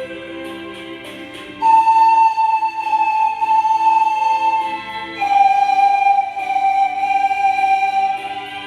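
Pan flutes playing a slow melody in long held notes over a sustained lower accompaniment. A louder, higher note comes in just under two seconds in and steps down to a lower one a little past halfway.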